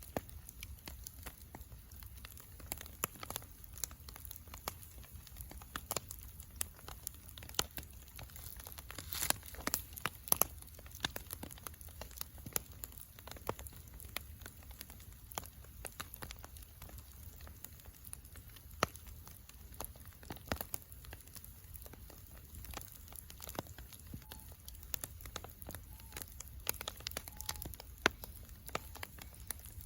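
Bonfire crackling, with irregular sharp pops and snaps over a faint low rumble. A few louder pops come about a third of the way in and again near the end.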